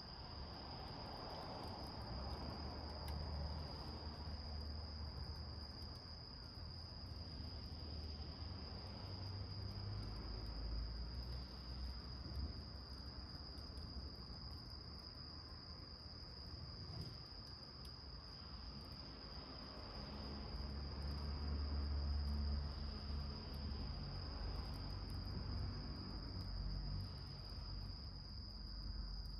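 A steady, unbroken high-pitched trill of insects, typical of crickets, under a low rumble that swells twice, the second time most strongly.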